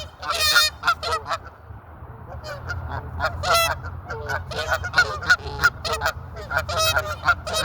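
A flock of geese honking, many short calls in quick succession and overlapping, over a low steady rumble.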